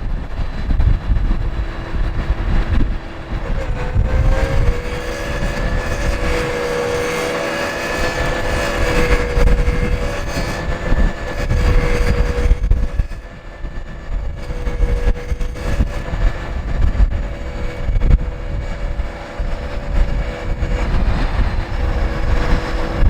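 Scania R580 truck's V8 diesel running, with a steady whine that wavers slightly in pitch from about four seconds in, strongest in the middle and returning near the end. Wind buffets the microphone.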